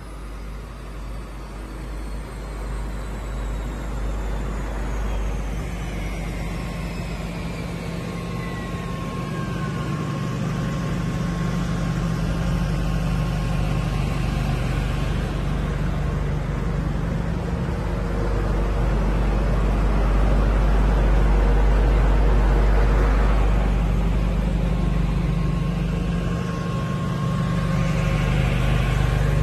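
The tuned twin-turbo V8 of a McLaren 720S idling on a chassis dyno, a steady low hum that grows louder throughout. Two faint high whistles slide down in pitch over the first ten seconds.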